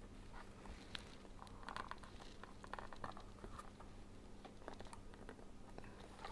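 Faint clicks and soft rustles of a cardboard board book being handled as a lift-the-flap page is opened.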